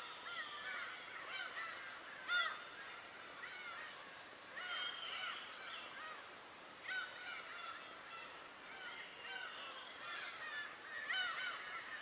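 A flock of birds calling over one another: many short, harsh calls that rise and fall in pitch, repeated several times a second, with one louder call about two seconds in.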